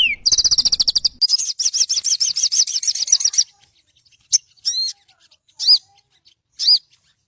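A sogon bird singing: two fast, high chattering trills, then a few short arched whistled notes about a second apart.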